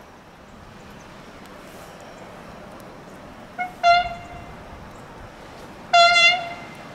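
An MLW diesel locomotive's horn sounds a brief toot, then two short single-pitch blasts about two seconds apart.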